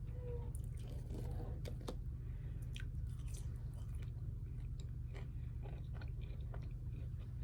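A person chewing and biting food close to the microphone: wet mouth clicks and some crunchy bites at irregular moments, over a steady low hum.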